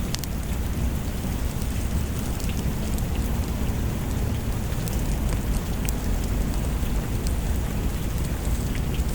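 Steady rain with a deep low rumble underneath and scattered faint ticks.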